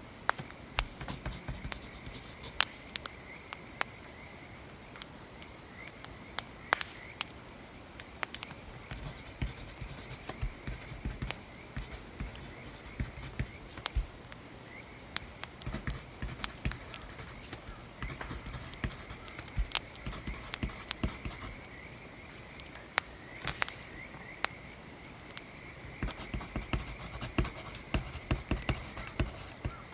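Writing on paper with scattered scratching strokes, over a crackling fire with irregular sharp pops.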